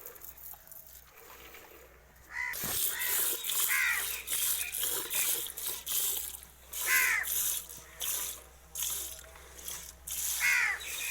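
Milk squirting into a pail in rhythmic spurts during milking, about two spurts a second, starting a couple of seconds in. Three short calls sound over it.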